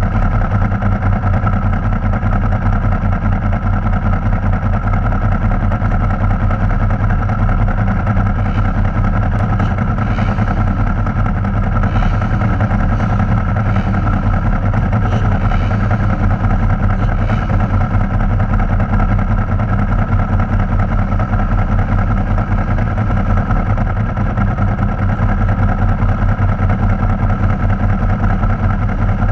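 Ducati Multistrada 1000DS's air-cooled L-twin engine idling steadily while the bike stands still, picked up close by the bike-mounted camera. Faint revs from other motorcycles rise and fall in the middle.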